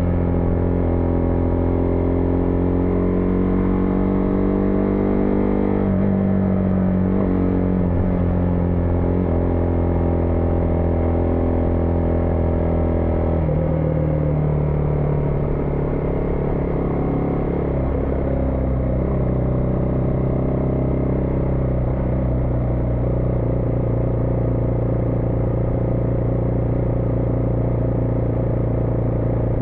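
Single-cylinder engine of a Husqvarna Vitpilen 401 motorcycle running under way. Its note falls about six seconds in, drops again lower about halfway through, and then holds steady.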